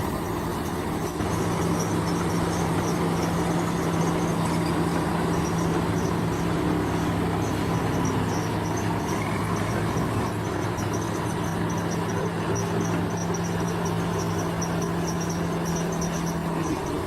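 Heavy diesel earthmoving machine, such as a bulldozer, running steadily at constant engine speed, with high insect chirping over it.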